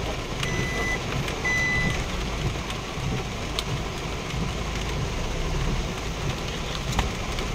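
Heavy rain beating on a vehicle's roof and windscreen, heard from inside the cab with the vehicle running underneath. Two short high electronic beeps sound in the first two seconds, and there are single sharp clicks about three and a half and seven seconds in.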